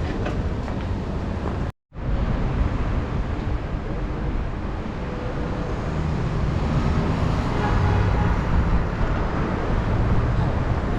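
Wind rushing over the microphone with road and traffic noise during a bicycle ride, a steady loud roar. The sound cuts out completely for a moment about two seconds in.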